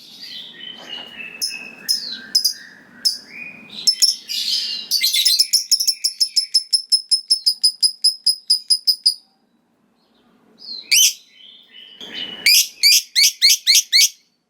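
Lovebird calling: sharp high chirps, then a long rapid run of repeated shrill notes, the "ngekek" chatter, at about seven a second that stops suddenly. After a short pause comes a single call, then another fast run near the end.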